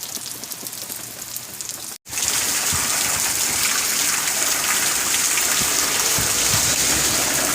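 Hurricane rain falling. About two seconds in, the sound cuts out for an instant and comes back as a louder, steady hiss of heavy rain as the wind and rain pick up.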